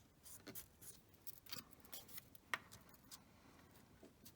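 Paper being handled for a craft: faint, irregular rustles and small clicks.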